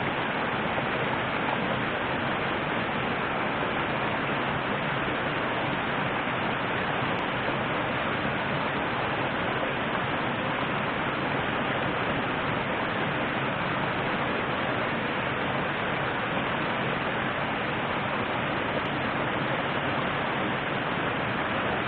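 Steady rushing of a river's flowing water, an even noise that holds the same level throughout.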